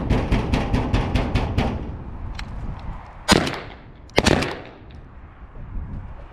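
A rapid run of about eight sharp claps in the first two seconds, then two loud shotgun shots about a second apart, each with a ringing tail.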